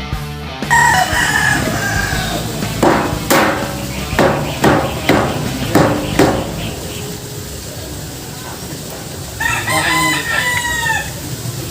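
A rooster crowing, one long crow near the end and a shorter call about a second in. In between, a run of about seven sharp hammer blows, roughly half a second apart.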